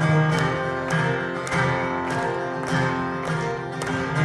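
Acoustic guitar strummed in a steady rhythm, an instrumental passage between the sung lines of a country song.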